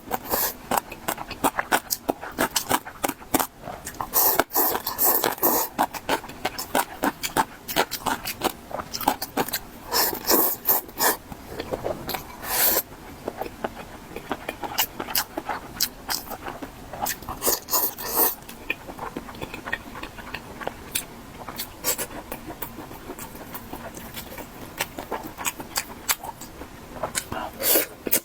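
Close-miked eating sounds from a spicy stir-fried pot (mala xiang guo): rapid crunching and wet chewing clicks in dense clusters, with short quieter lulls between bites.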